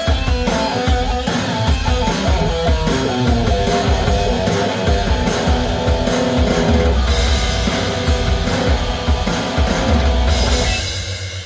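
Amplified electric guitar playing a rock melody of held, sustained notes over a drum kit beat; the music fades out near the end.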